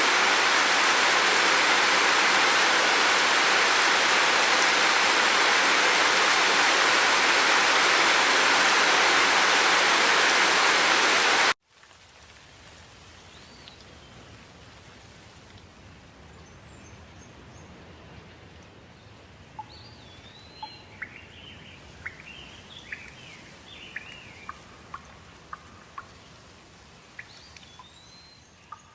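Heavy, steady rain that cuts off abruptly about a third of the way in, giving way to a much quieter outdoor background with birds chirping and singing in short scattered calls.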